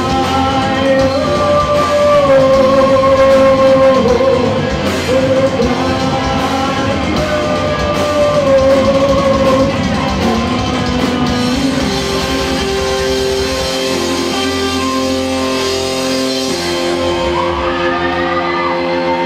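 Rock band playing live in a large hall, with singing over the music. From about twelve seconds in the drums drop away and the band holds long sustained notes.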